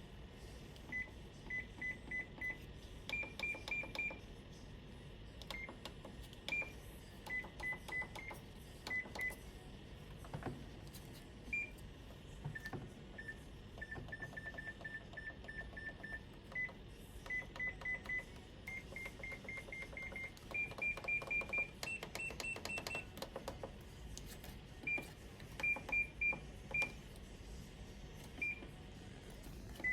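Hitachi MRO-JT231 steam oven microwave's control panel beeping as its buttons are pressed: many short beeps at a few different pitches, often in quick runs, with faint clicks between them.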